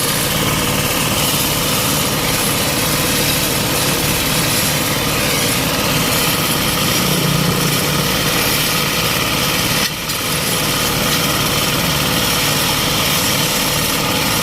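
Small engine-driven vibrating ballast tampers running steadily, packing the stone ballast under railway track. Their running dips briefly about ten seconds in.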